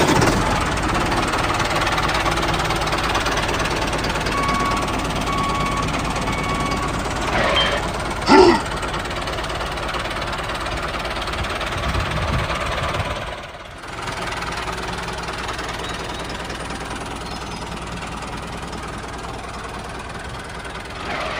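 Diesel tractor engine running with a steady knocking chug, dipping briefly about two-thirds in before carrying on. A brief louder sound cuts in a little over a third in.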